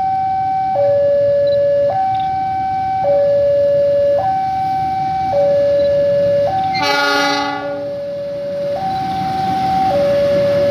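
Railway level-crossing alarm sounding a steady two-tone hi-lo wail, switching pitch about once a second. About seven seconds in, a train's horn gives one short blast of under a second, a chord of several notes.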